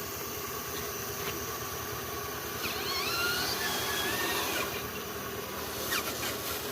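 Steady whir of a radio-controlled construction model's electric motor, with a few brief rising and falling whines about halfway through.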